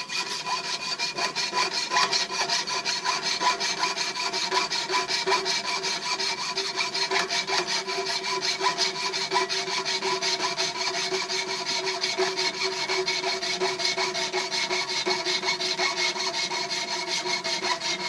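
Broken bandsaw blade pulled back and forth by hand as a two-person pit saw, cutting through the last bit of a wooden bracket in rapid, even strokes. The blade rings at a steady pitch under the rasping.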